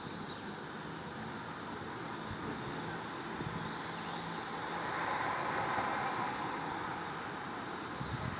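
Steady road traffic noise, with one vehicle passing that swells and fades about halfway through.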